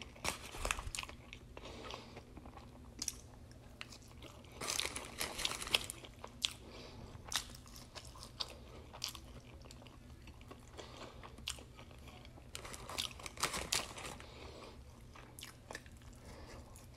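A person chewing crispy fried food close to the microphone: irregular crunches and mouth clicks that come in bunches, the busiest about a third of the way in and again past three quarters.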